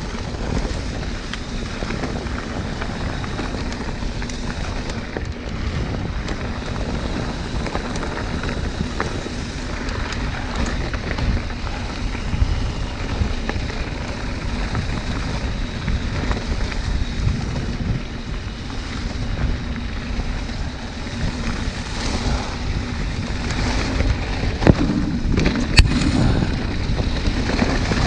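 Wind buffeting the microphone over a steady rumble and rattle from riding over rough ground, with a few sharp knocks near the end.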